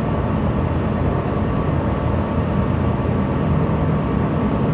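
Steady low rumble with a faint underlying hum, the background noise aboard a ship during berthing manoeuvres.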